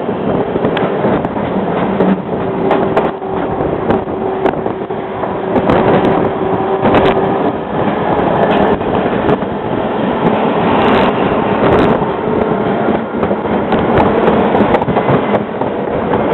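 Bernina Express train heard from on board while it runs: a steady rumble of wheels on rail with scattered sharp clicks, and a steady hum that holds for several seconds about two seconds in.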